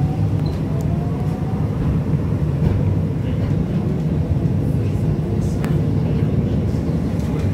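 Breda VLC tram running along its track: a steady low rumble from the wheels and running gear. A faint traction-motor whine rises in pitch during the first second or so, and a few brief clicks sound later on.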